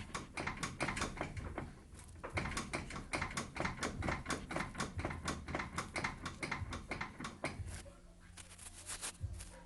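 Steering rack of a Volkswagen Passat B5 knocking as the front wheel is worked up and down: a fast run of sharp knocks, about five a second, stopping about eight seconds in. The knock is taken for a worn steering rack.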